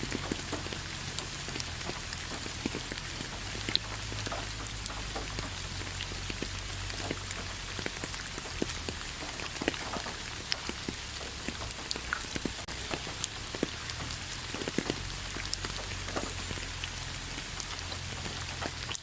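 Steady rain falling, with a continuous hiss and many separate drops striking a surface close by.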